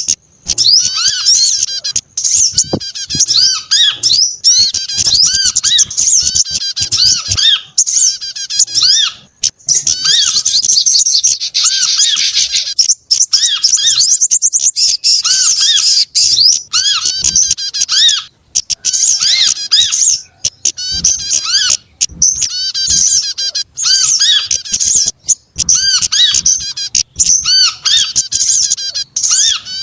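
Dense, overlapping small-songbird calls: rapid high chirps and trills with a short arched note repeated again and again lower down, broken by a few brief pauses. It is a mixed bird-lure recording of several small species, played to draw small birds in.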